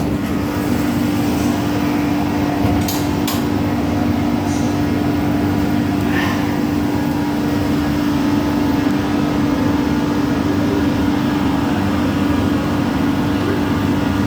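Steady hum inside a Doha Metro train car, a constant low drone of the train's machinery and ventilation, with a few light clicks in the first few seconds.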